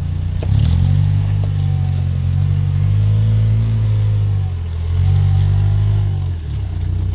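Off-road 4x4's engine revving in surges while crawling over a rocky trail. The revs climb about half a second in, then drop briefly twice, just before the five-second mark and near the end, picking up again each time.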